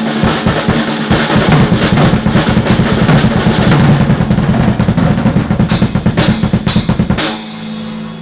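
Drum kit played fast, with dense bass drum and snare strokes, and a few cymbal crashes toward the end. The playing stops about seven seconds in and the kit is left ringing and fading.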